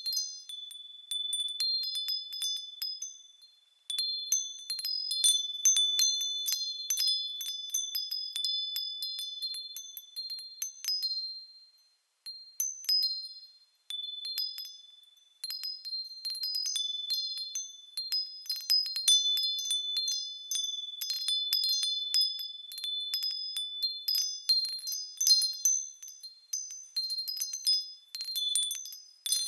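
Small high-pitched bells chiming irregularly as they sway: several clear ringing tones over many light, tinkling strikes, with brief lulls about four, twelve and fifteen seconds in.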